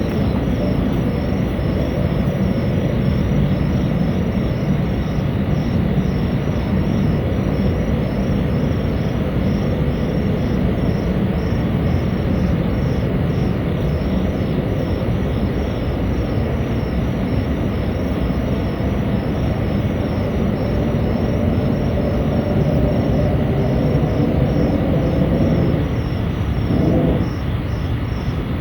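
A continuous low rumbling drone of unidentified origin, with a faint high chirping pulsing steadily over it.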